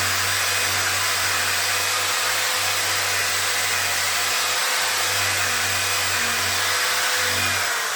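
Handheld electric power tool used for headlight lens restoration, its motor running steadily at speed with an even whirring rush.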